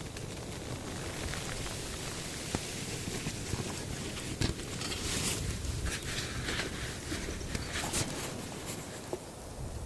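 Steady rush of blizzard wind and snow on a tarp shelter, with scattered small clicks and a few brief rustling bursts from gear being handled close by.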